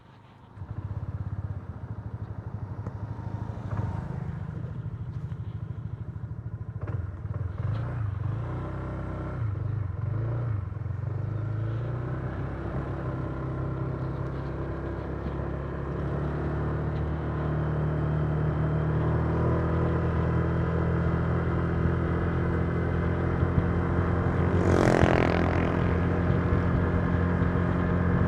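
Honda Giorno 125 scooter's single-cylinder four-stroke engine running, starting up about a second in. Its speed varies over the first dozen seconds, then it settles into a steady note that rises slowly as the scooter gathers speed. A brief falling whoosh comes a few seconds before the end.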